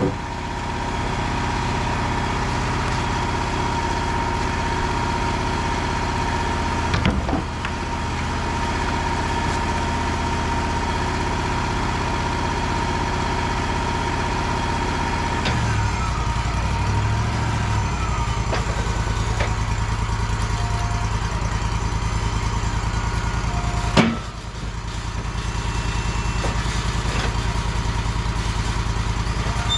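Wood-Mizer sawmill's engine running steadily, with a steady whine that stops about halfway. Two sharp knocks, the second louder, about a quarter of the way in and again near the end.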